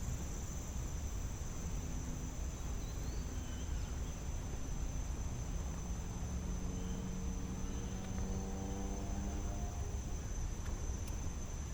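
Insects trilling in a steady high-pitched drone, unbroken, over a low background rumble.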